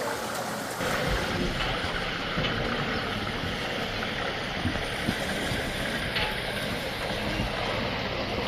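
Steady rumble and running noise of a moving passenger train, with the low rumble growing about a second in.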